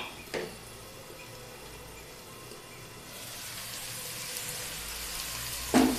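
Okra frying in a nonstick pan: a faint sizzle that grows louder from about halfway through as the pan's lid comes off, with a sharp clink of a spatula against the pan near the end as stirring begins.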